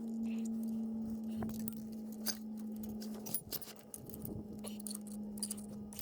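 Scattered light metallic clicks and clinks: steel brake discs and plates being handled and fitted into a tractor's oil-immersed disc brake.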